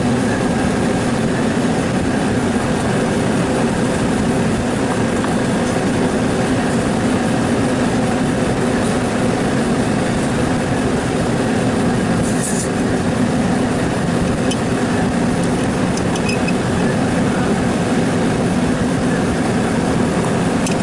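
Steady mechanical hum of a running motor-driven machine, with a brief high hiss about twelve seconds in.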